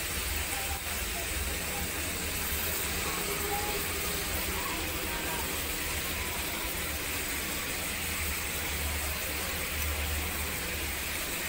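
Marinated beef slices sizzling steadily in hot oil in a pan, with a steady low hum underneath.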